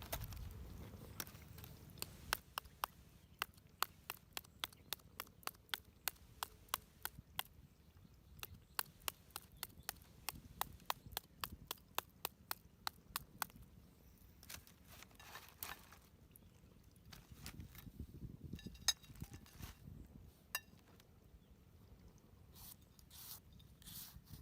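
Rapid, evenly spaced sharp clicks of hand-tool strokes, about three to four a second, for some twelve seconds. They then thin out into a few scattered clicks and scrapes.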